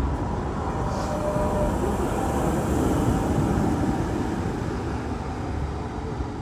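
Tram running: a steady rumble of wheels and running gear that eases off a little near the end, with a brief high squeak about a second in.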